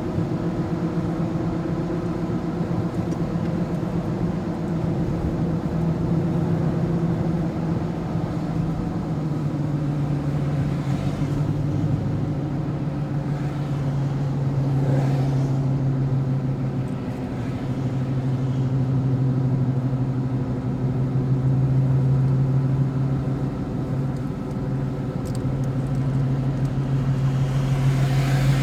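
Vehicle engine and road noise while driving: a steady drone whose pitch steps down slightly about ten seconds in.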